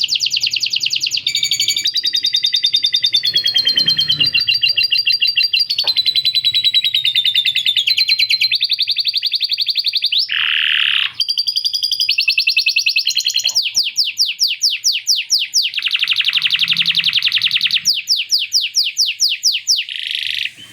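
A canary singing one long unbroken song of fast trills and rolls, changing phrase every second or two. A harsher chattering phrase comes about halfway through, and runs of quick down-slurred notes repeat several times a second near the end. The song is filled with lovebird-style phrases learned into it.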